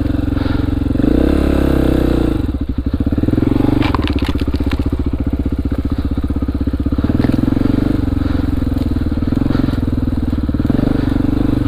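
Honda XR400R's single-cylinder four-stroke engine running at low revs. The revs rise briefly about a second in, then drop back to a steady, even chug.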